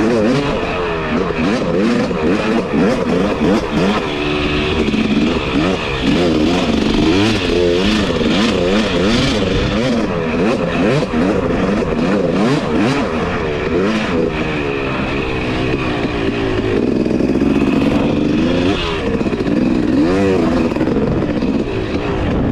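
Two-stroke dirt bike engine being ridden, its pitch rising and falling over and over as the throttle is opened and shut, with frequent clattering knocks.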